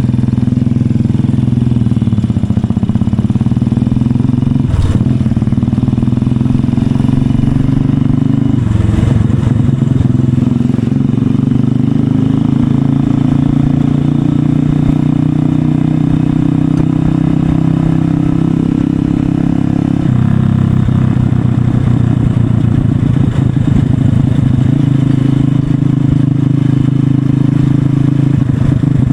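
Honda SP 125's single-cylinder engine breathing through an aftermarket SC Project exhaust, running steadily under way. Its note shifts twice, about a third and two-thirds of the way through.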